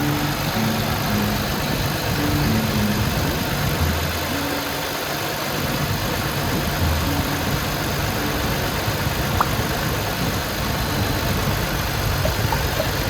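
Jeep Wrangler JL's 3.6-litre V6 engine running steadily, with a constant whooshing noise over it.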